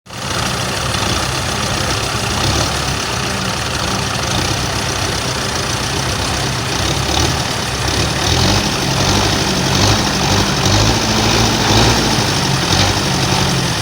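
Belarus 510 tractor's diesel engine running steadily at low revs, its speed rising and falling slightly in the second half.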